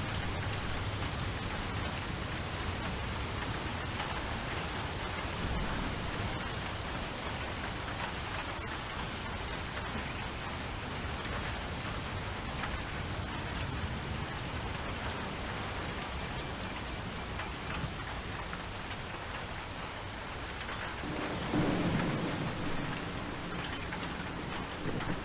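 Steady rain falling, with a low rumble of thunder that swells briefly near the end.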